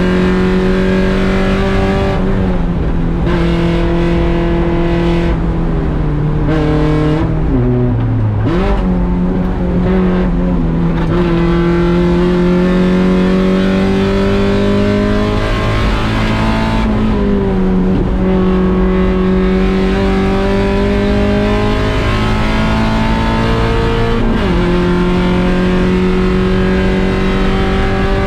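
1.6-litre Mazda Miata race car's four-cylinder engine under hard acceleration, heard from inside the car, its pitch climbing slowly and then dropping sharply at each gear change. About a third of the way in the revs fall away and then climb again, as when lifting and changing down for a corner.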